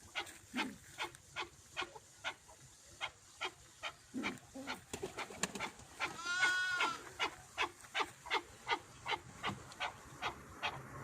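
Chukar partridge calling: a steady run of short, sharp clucking notes, about two to three a second, with one longer, drawn-out cry about six and a half seconds in.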